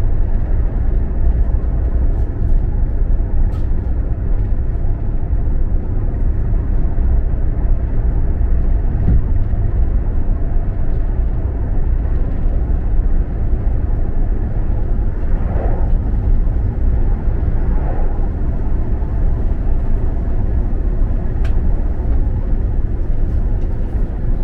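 KTX high-speed train running at speed: a steady low rumble with rushing noise, heard inside the passenger car.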